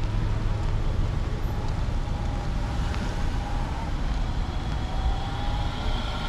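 Steady low rumble of motor vehicle engines in slow-moving road traffic.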